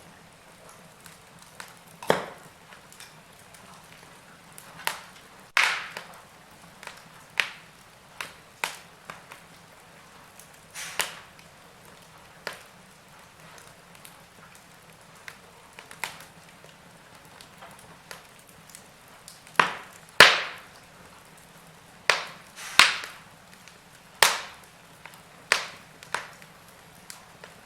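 Wood fire crackling in a fireplace: about twenty sharp, irregularly spaced pops and snaps over a faint steady hiss, the loudest about two-thirds of the way through.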